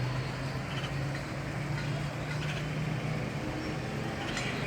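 A steady low hum over background noise, with a few short, faint high chirps at about one second, two and a half seconds and near the end.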